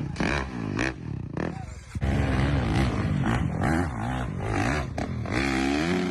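Honda CRF dirt bike engine revving, its pitch rising and falling again and again as the throttle is worked, louder from about two seconds in.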